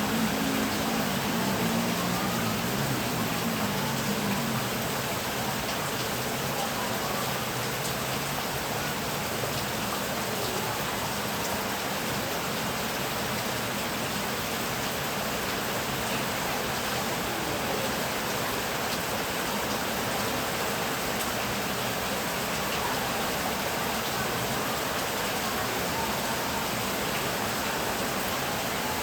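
Steady heavy rain, an even hiss of downpour. In the first few seconds a low droning tone slides down in pitch and fades out.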